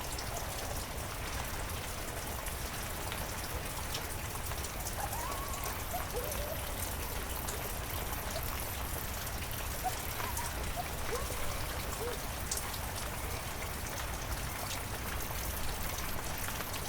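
Heavy rain falling steadily, with many individual drops ticking close by over a constant low rumble.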